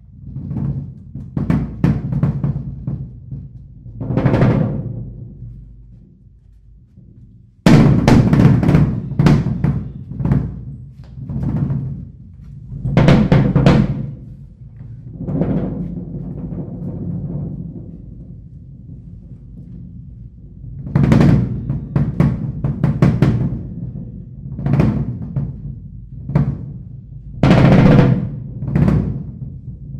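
Live drum kit playing, loose and free in time: a few separate swelling strokes at first, then a sudden loud entry about seven seconds in with dense hits and rolls. It eases to a quieter stretch in the middle, then builds again.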